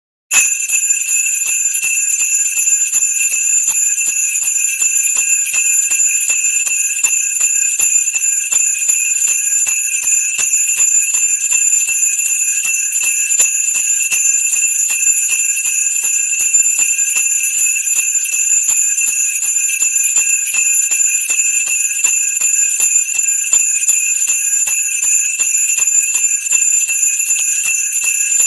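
Sleigh bells jingling continuously in a quick, even shaking rhythm. They start suddenly just after the beginning.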